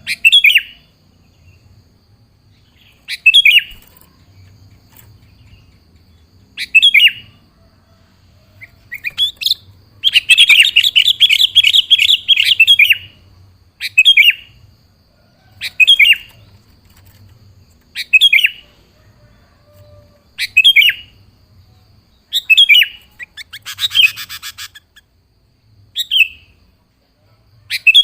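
Sooty-headed bulbul calling in short, bright phrases repeated every couple of seconds, with a longer chattering run about ten seconds in and a harsher, buzzy burst near the end.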